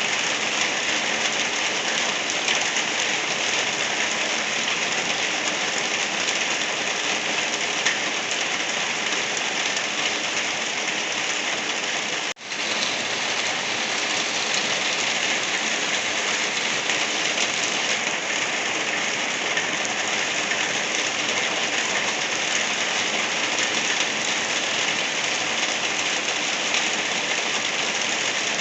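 Gentle rain falling steadily, an even hiss of drops, with a split-second gap about twelve seconds in.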